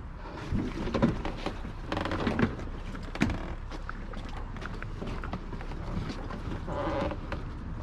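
Scattered knocks, clatters and short creaks of junk being handled and shifted about.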